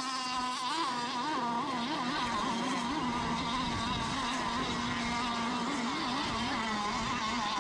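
Engines of radio-controlled racing boats running out on the water, a steady whine whose pitch wavers up and down slightly as the boats race.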